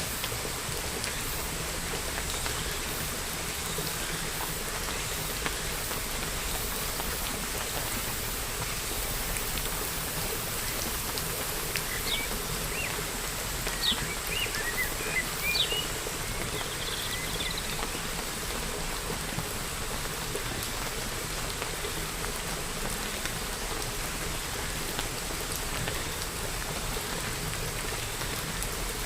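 Steady rain falling, with a short run of bird chirps about halfway through.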